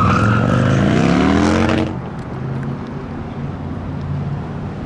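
Motorcycle engine revving, its pitch rising for a couple of seconds, then cutting off abruptly to a quieter, steady low engine rumble.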